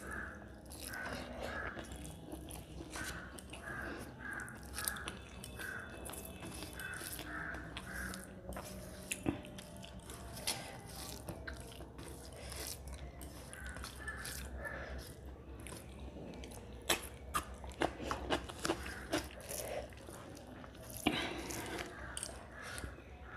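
Close-miked eating sounds: wet chewing and lip smacking of rice and mutton curry eaten by hand, in a rhythm of about two chews a second, with many sharp mouth clicks scattered through.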